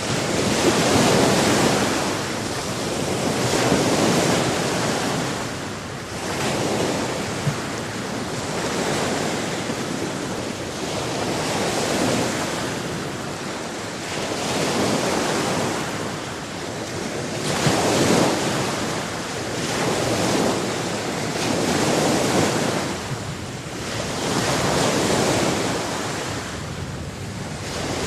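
Ocean waves breaking and washing on a shore, swelling and ebbing about every two to three seconds, with some wind on the microphone.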